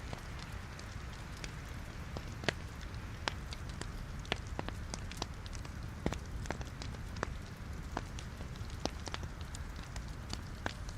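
Wood fire in a fireplace crackling: scattered sharp pops and snaps from burning logs, several every second, over a steady low rumble of the flames. The sharpest pop comes about two and a half seconds in.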